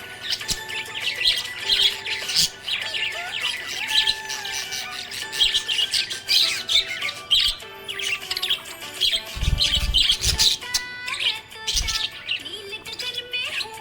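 Budgerigars chirping and warbling continuously in rapid, busy chatter, with an occasional harsher squawk. A few low thumps come about two-thirds of the way in.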